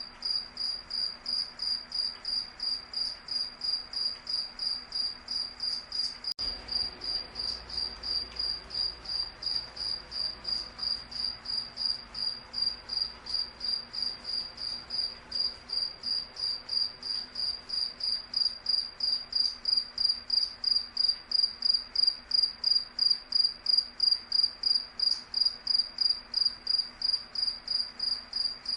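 Cricket chirping: an even, unbroken series of high-pitched chirps, about two to three a second, growing slightly louder in the second half.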